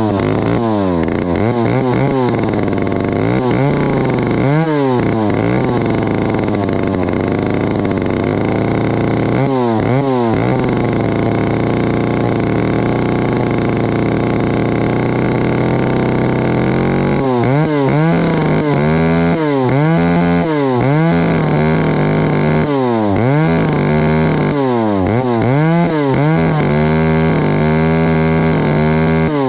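Stihl 051 two-stroke chainsaw running steadily, its engine speed stepping up a little past halfway. The exhaust is very, very noisy, which the owner says will need fixing.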